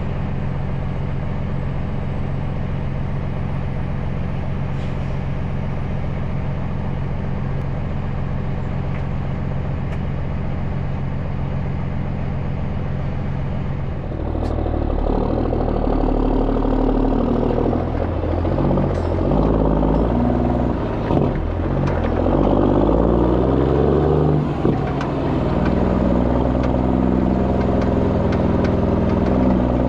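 Heavy truck diesel engine idling steadily, then about halfway through it gets louder and its pitch rises and falls as the engine is revved.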